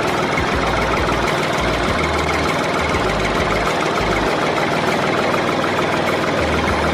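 Engine running steadily at idle with a fast, even knocking rhythm.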